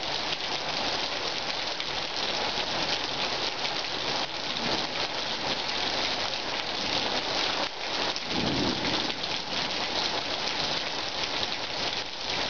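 Rain falling steadily in a thunderstorm, a dense hiss of drops on surfaces. A brief low rumble of thunder comes about eight seconds in.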